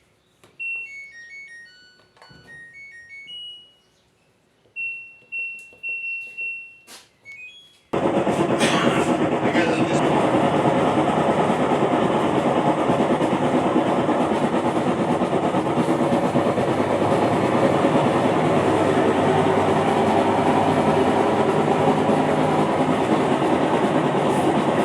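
Top-load washing machine's control panel beeping in short tones as it is set, then about eight seconds in the machine starts with a loud, steady grinding noise. The noise comes from a worn clutch housing whose gears are worn out.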